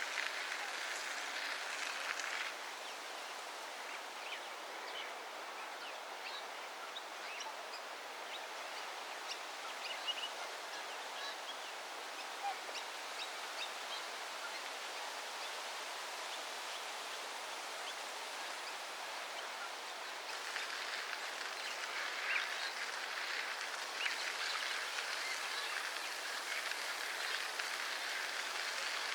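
Steady outdoor background noise with scattered faint bird chirps. The noise steps up, louder and busier, near the start and again about two-thirds of the way through.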